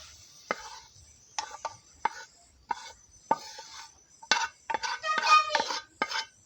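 A metal spoon clinking and scraping against a metal pot or dish: about a dozen sharp, unevenly spaced strikes, each with a brief ringing tone, crowding together a little past the middle.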